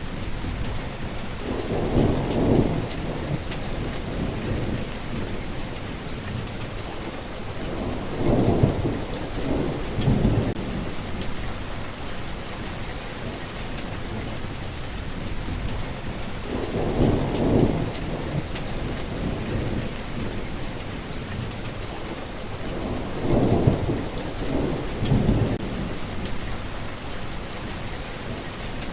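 Steady rain falling, with thunder rumbling low four times, each rumble rolling over a second or two.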